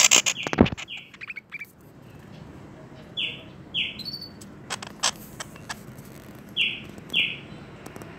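Pet bird chirping: two pairs of short, falling chirps, each pair half a second apart, preceded by a quick cluster of sharp clicks and knocks with one thump at the start.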